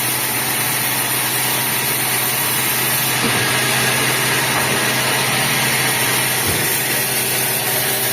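Sawmill machinery running steadily: an engine-like low hum under an even hiss.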